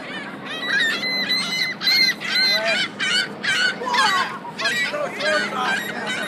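Several gulls calling over and over, short harsh squawks in quick overlapping succession.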